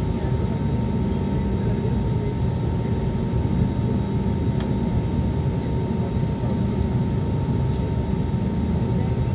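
Airbus A320neo engines and airflow heard from inside the passenger cabin: a steady loud rumble with a thin steady whine running through it.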